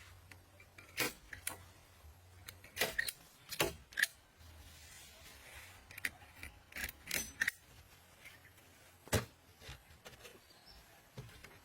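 Irregular sharp clicks and knocks, about a dozen scattered through the stretch, over a faint low hum that comes and goes.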